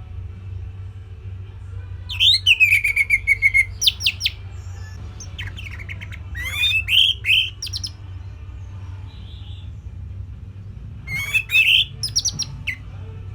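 Orange-headed thrush singing three short phrases of rapid notes and slurred whistles, with pauses between them, over a steady low hum.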